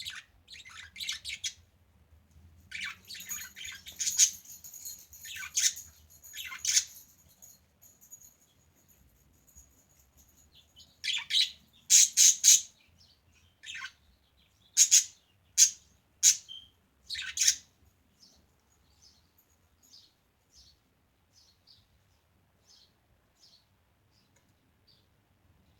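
Pet budgerigars chirping and chattering in clusters of high chirps with a held whistle among them, loudest in the middle, then fading to fainter single chirps near the end.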